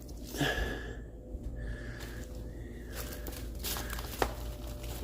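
Footsteps of a person in rubber muck boots walking slowly, with light rustling and a sharp tap a little after four seconds in.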